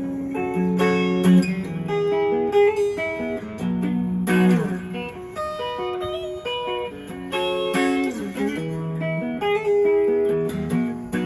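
PRS Tremonti electric guitar played through a Zoom X1 effects unit, picking a run of single notes and chord shapes with several string bends.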